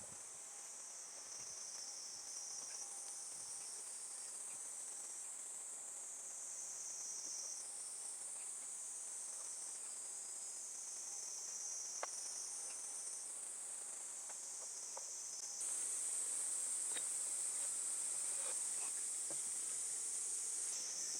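Insects singing outdoors: a steady, high-pitched continuous chorus that gets louder about two-thirds of the way in, with a few faint ticks.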